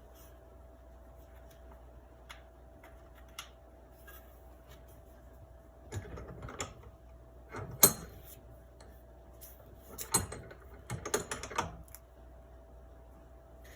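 Clicks and knocks of small parts and hand tools being handled during reassembly of a Daisy 105 Buck BB gun. They come in clusters from about six seconds in, and the loudest is a single sharp click near the middle. A faint steady hum runs underneath.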